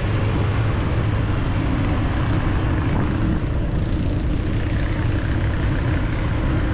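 Steady city street traffic noise with a heavy low rumble and no single vehicle standing out.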